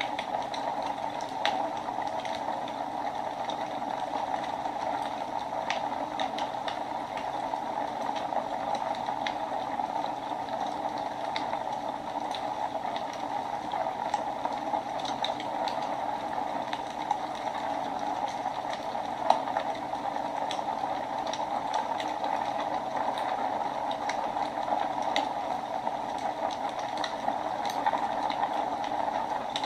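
Wood fire burning in a fireplace: a steady rushing hiss with frequent small crackles and pops, one sharper pop about two-thirds of the way through.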